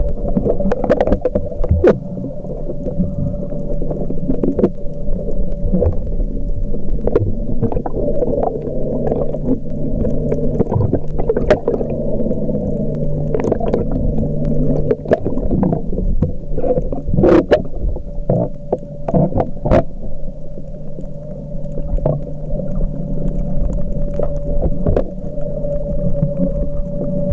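Underwater sound picked up by a camcorder in a waterproof housing while snorkeling: a steady muffled hum with scattered sharp clicks and crackles throughout.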